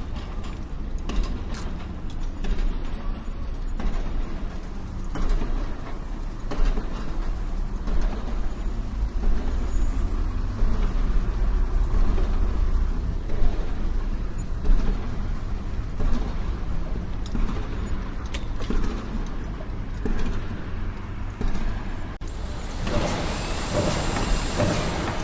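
A large engine running steadily with a low rumble and occasional knocks, changing abruptly to a different engine-like noise about 22 seconds in.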